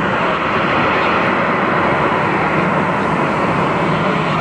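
Jet airliner engine noise: a steady, loud, even rush of sound with no change in level.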